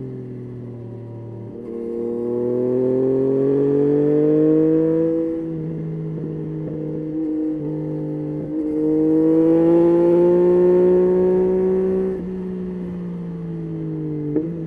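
Yamaha Tracer 9's 890 cc inline-three engine under way, its pitch rising twice as it pulls through the revs, steadier in between with brief breaks. A short sharp click near the end.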